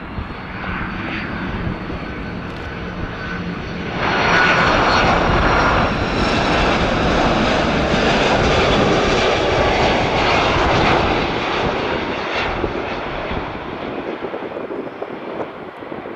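Jet airliner's engines running steadily, then surging suddenly to a much louder rush about four seconds in. The surge holds for about seven seconds and slowly dies away, typical of reverse thrust after landing.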